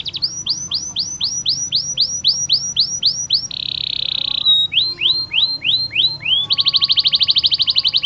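Domestic canary singing a long rolling song. Series of repeated swooping notes at about four a second alternate with dense, fast buzzing trills, one about halfway through and one near the end.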